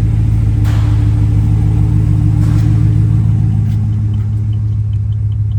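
2015 GMC Sierra 1500's 5.3-litre V8 engine running steadily at idle.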